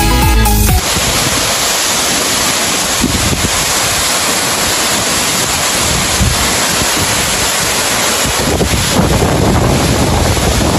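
Electronic music that stops abruptly about a second in, then the loud, steady roar of the Skjervsfossen waterfall, with wind buffeting the microphone.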